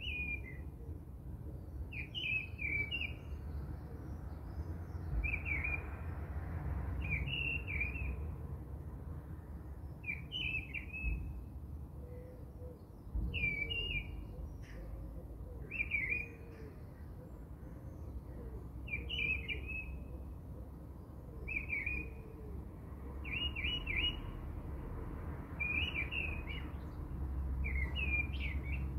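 A bird chirping a short, quick phrase over and over, about every one and a half to two seconds, over a low steady rumble.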